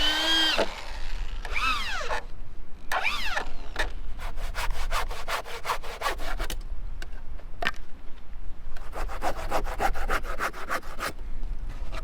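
Three high squeaks with arching pitch in the first few seconds, then two runs of quick, evenly paced rasping strokes, like a blade sawing back and forth through something hard.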